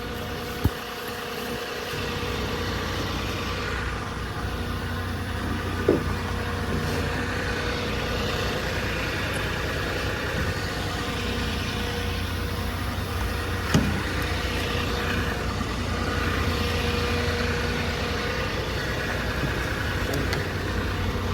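Vehicle engine idling steadily, with a few short sharp knocks.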